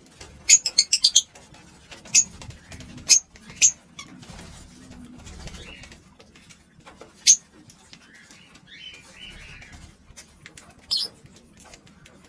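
Pet lovebirds chirping: a quick run of about six shrill chirps in the first second, then single sharp chirps every few seconds, with softer chatter between.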